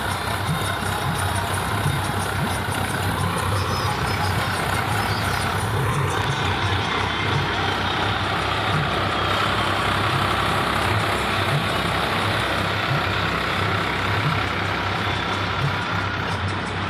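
Swaraj 855 tractor's three-cylinder diesel engine running steadily.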